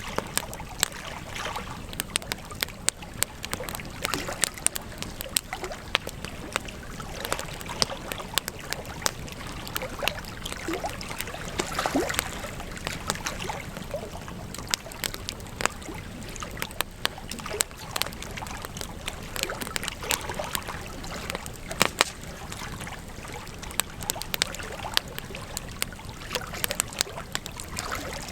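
Campfire crackling: frequent sharp, irregular snaps and pops over a steady hiss of burning wood, with a couple of brief faint whistles near the middle.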